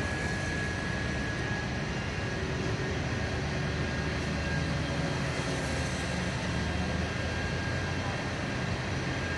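Steady low rumble of vehicle engines running, with no siren or sudden sounds.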